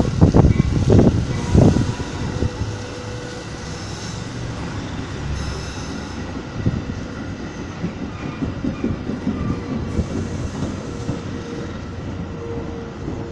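Metra commuter train rolling on the rails, with loud low knocking in the first couple of seconds and then a steady rumble. A thin steady tone comes in over the second half.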